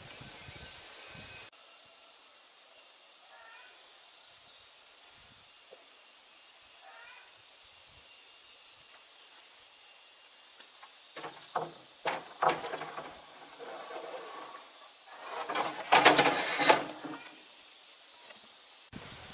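Steady outdoor hiss with a few faint chirps, then several sharp knocks and, about sixteen seconds in, a loud rustling clatter lasting about a second and a half.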